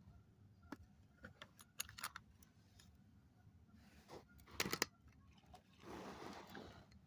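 Faint, scattered small clicks and taps of handling, with a quick cluster of them about four and a half seconds in and a short rustle near the end.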